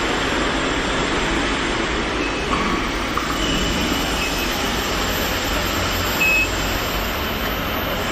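Steady machinery noise, a low hum under an even rush, with a few faint brief high tones.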